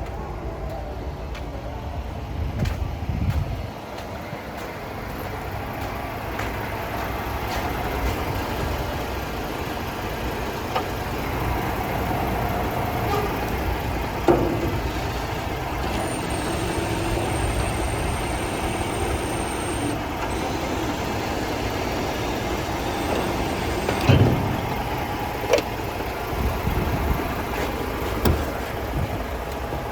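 A DAF CF 480 truck's PACCAR MX-13 straight-six diesel engine running steadily. Several short, sharp louder sounds come in the second half, and a faint high whistle lasts a few seconds around the middle.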